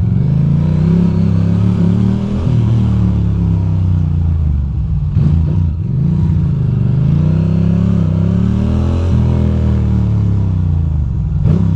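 Ducati Monster 620's air-cooled L-twin engine running under the rider, its pitch rising and falling several times as it accelerates and eases off through city turns, with a brief dip a little past halfway.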